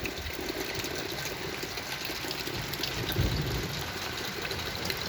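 Steady rain falling, an even hiss, with a brief low rumble about three seconds in.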